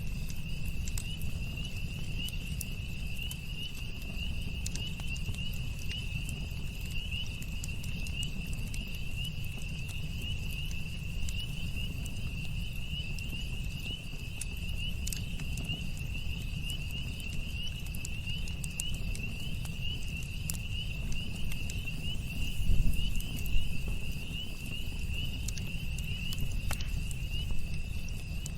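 Campfire burning with a steady low rumble and scattered crackles and pops, a few louder ones near the end. Over it runs a continuous high, pulsing chirring of night insects.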